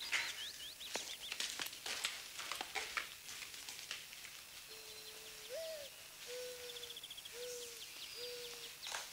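Birds chirping, over scattered short clicks and knocks. About halfway in, a low bird call of four notes starts, the second note rising higher than the rest.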